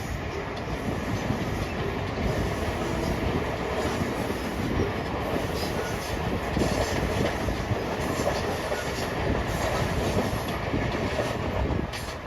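Passenger train crossing a rail viaduct: a steady rumble of wheels with the clickety-clack of rail joints, dying down near the end.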